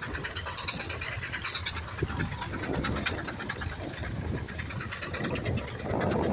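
Tractor engine running with a steady, fast firing beat, swelling louder about six seconds in.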